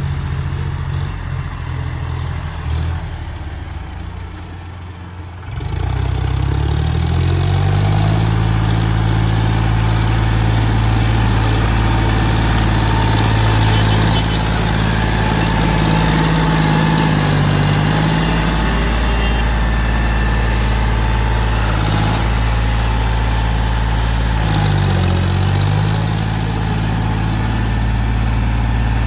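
John Deere four-wheel-drive tractor engine running. Quieter at first, then about five seconds in it gets louder and revs up, and runs steadily after that, with two brief dips in pitch, one a little past halfway and one near the end.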